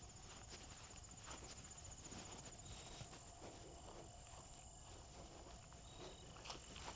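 Footsteps on a trail under a continuous high insect trill, with a brief high note about every three seconds.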